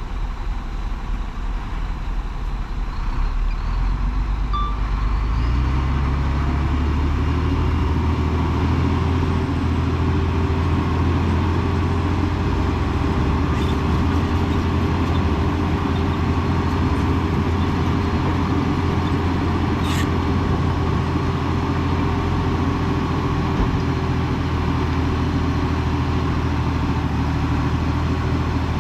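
Heavy diesel engine of earthmoving machinery running, revving up about five seconds in and then holding a steady, heavier run.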